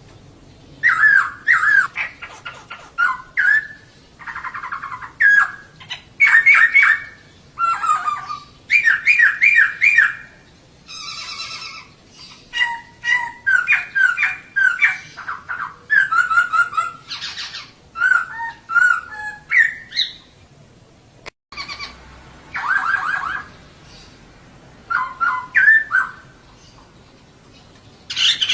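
Female poksay (laughingthrush) calling in rapid runs of sharp chirps and slurred whistles, phrase after phrase with short gaps, pausing once about two-thirds of the way in. This is the female call that keepers play to provoke male poksay into full song.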